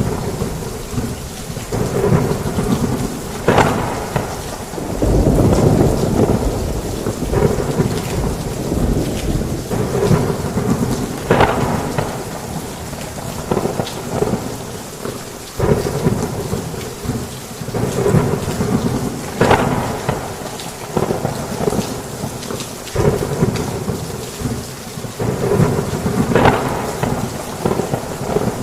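Heavy rain falling steadily while thunder rumbles and rolls. Sharper thunder cracks break through every eight seconds or so.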